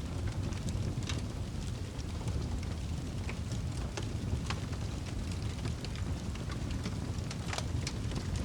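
Fire burning in a fireplace, crackling with irregular sharp pops over a steady low rumble; a few pops stand out, about a second in, midway and near the end.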